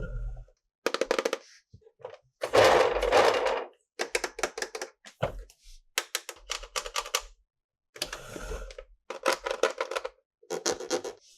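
Hard plastic toy parts clicking and clattering in short bursts of rapid clicks, with a couple of longer scraping rustles in between.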